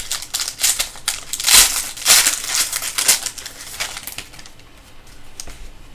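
Trading cards and their packaging being handled: a run of crinkling and rustling, busiest about two to three seconds in and quieter towards the end.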